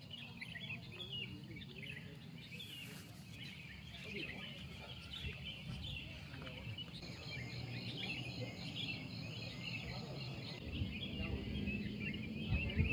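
Small birds chirping and twittering, with a rhythmic trill for a few seconds past the middle, over a low steady background noise.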